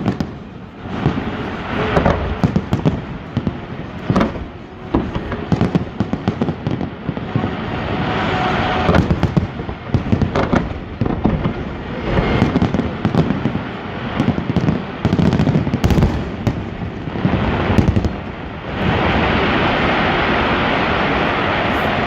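Aerial fireworks shells bursting in quick succession, with booms and crackling, over about nineteen seconds. Near the end the bangs stop and an even, steady rushing noise takes over.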